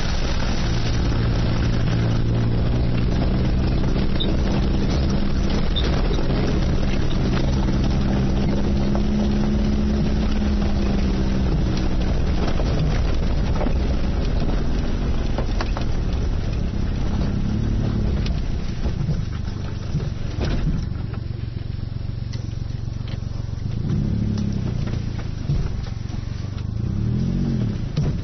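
Suzuki Jimny JA22's small three-cylinder turbo engine pulling steadily over a constant rumble with scattered knocks and rattles. In the second half the engine revs up and back down in several short blips.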